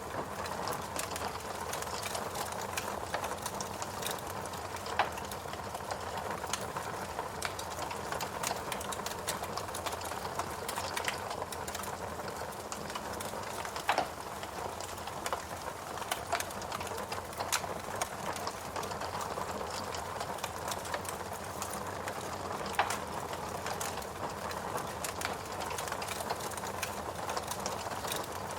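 Fireplace fire crackling, with irregular sharp pops and snaps over a steady soft rushing hiss.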